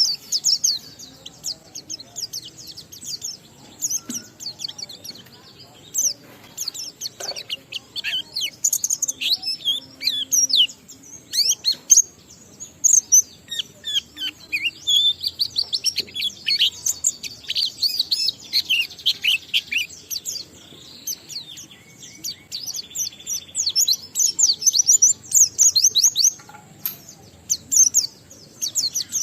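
Pleci (white-eye) singing a long unbroken song of rapid, high-pitched chirps and trills.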